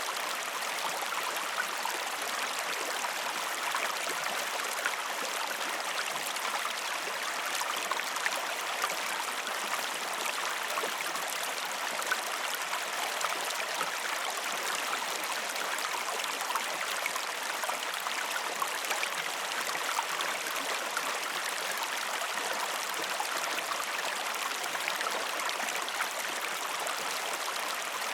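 River water flowing steadily, a continuous even babble of running water with small splashy flickers and no change in level.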